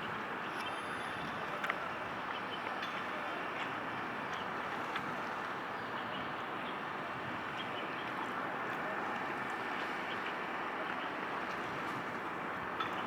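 Steady outdoor background noise, an even hiss without any pitch, with a few faint clicks.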